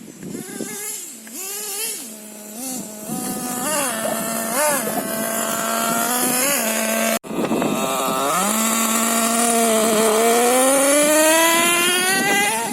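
Nitro RC monster truck's small two-stroke glow engine (LRP ZR.28) running, with a few short throttle blips that rise and fall. After a brief break about seven seconds in, its pitch climbs steadily as the truck accelerates.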